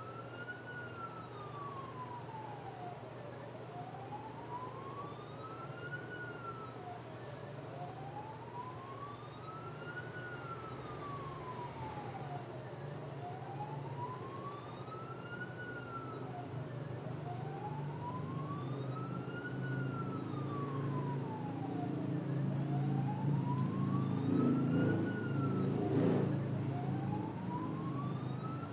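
Emergency vehicle siren wailing, its pitch slowly rising and falling in cycles about five seconds long, over a low engine rumble that grows louder toward the end. A sharp click sounds near the end.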